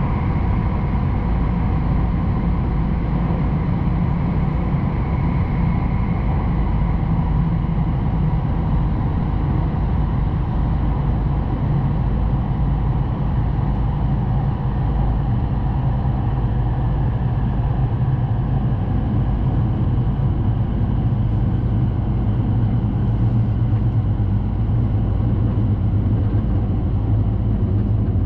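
Steady low rumble of a Hayabusa Shinkansen train running at speed, heard inside the passenger cabin. A faint whine fades away over the first several seconds.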